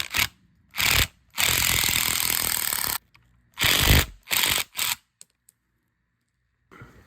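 Cordless impact driver hammering in short trigger bursts and one longer run of about a second and a half, then stopping about five seconds in.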